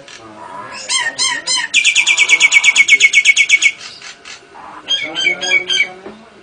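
Cage birds calling: a few sharp chirps, then a fast run of about twenty identical high notes lasting about two seconds, then a few more chirps near the end.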